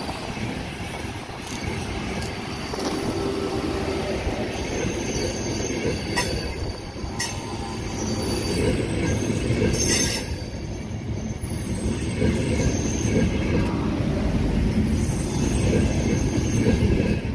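Frecciargento ETR 485 electric high-speed train moving slowly alongside the platform as it pulls out, its wheels and running gear rumbling on the rails. The sound grows steadily louder as it gathers speed.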